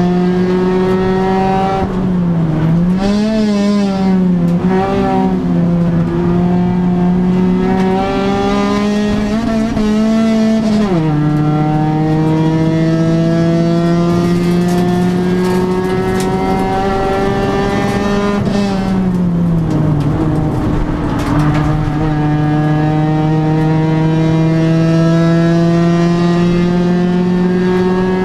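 1997 Honda Civic 1.5 race car's engine at racing speed, heard from inside its stripped cabin. The note climbs slowly under load, wavers up and down early on, drops suddenly about a third of the way in at a gear change, and falls again about two-thirds through before climbing once more.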